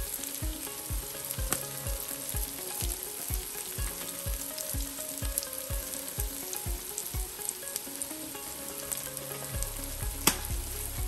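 Sliced onions and tomato paste sizzling in oil in a metal pan while dry seasoning is shaken in, with a sharp tap near the end.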